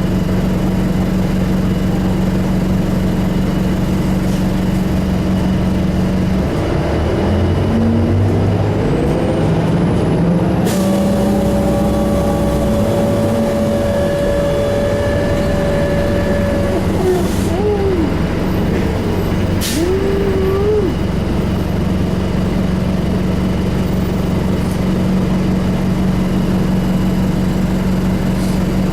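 Detroit Diesel Series 50 diesel engine of a 2001 New Flyer D35LF transit bus, heard from inside: idling steadily, then revving up. Loud hisses of compressed air from the bus's air brakes and air system begin about ten seconds in, with a shorter sharp hiss later and some squealing, before the engine settles back to a steady idle.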